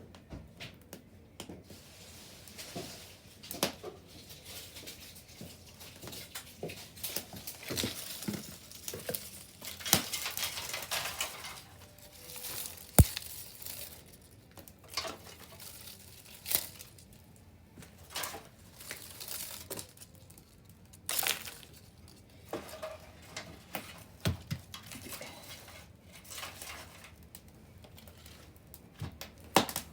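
Wood bonfire crackling, with irregular snaps and pops, a denser run of crackling about ten seconds in, and one sharp loud pop about halfway through.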